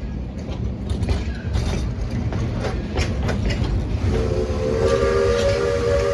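Narrow-gauge steam logging locomotive running with a low rumble and irregular clanks. About four seconds in, its whistle sounds a steady multi-note chord and holds it.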